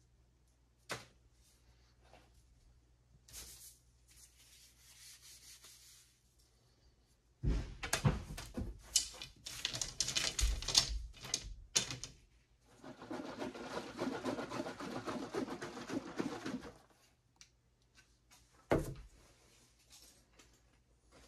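Hand work at a bench: scattered sharp taps and knocks, a dense run of knocking and rubbing about a third of the way in, then a few seconds of steady scraping or whirring noise that stops suddenly.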